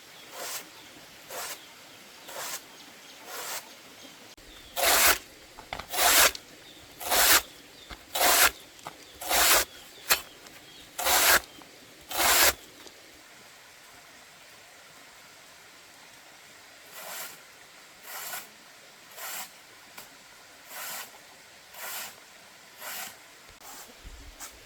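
Knife strokes cutting through banana tree stems, one short scraping stroke about every second. There is a loud run of eight strokes in the middle, then a pause, then fainter strokes.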